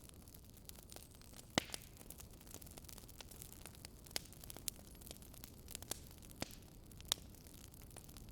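Burning firewood crackling, with irregular sharp pops, the loudest about a second and a half in and again near the end, over a steady low hiss.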